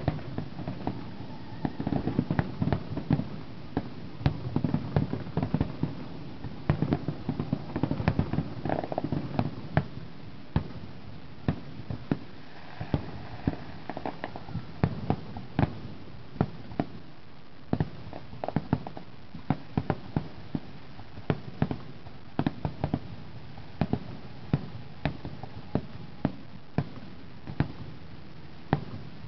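Aerial fireworks shells bursting one after another: many sharp bangs over a low rumble, thickest in the first ten seconds, then more spaced out.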